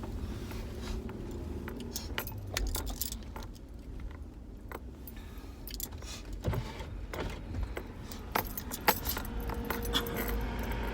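Keys jangling, with scattered sharp clicks and knocks, over a steady low rumble.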